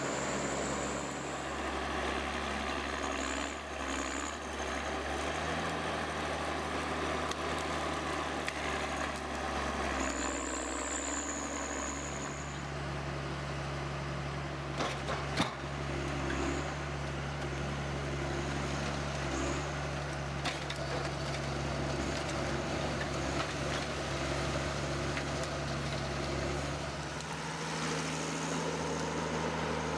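Engine-driven machinery running steadily with a low hum, its pitch shifting slightly a few times. Brief high squeals come now and then, and a sharp knock falls about halfway.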